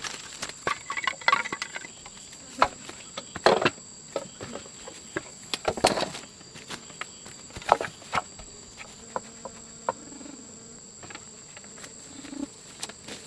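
Insects, crickets, keep up a steady high-pitched trill. Irregular knocks and rustles of handling or footsteps sound over it, with a few sharper, louder knocks among them.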